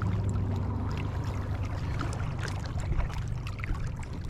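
Wind buffeting the microphone, a steady low rumble, with faint scattered ticks over it.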